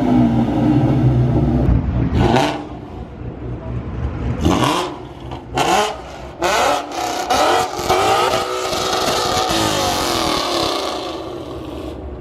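A loud car engine and exhaust revving hard in several short blips, each rising in pitch, then holding a longer rising run near the end; the filmer calls it the loudest car so far.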